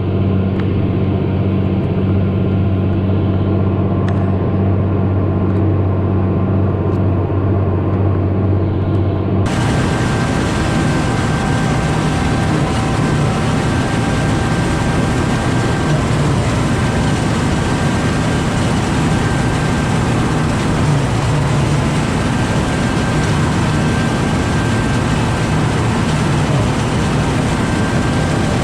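Large farm tractor's engine running steadily with a low drone. About a third of the way in, the sound changes abruptly to a brighter, noisier engine sound.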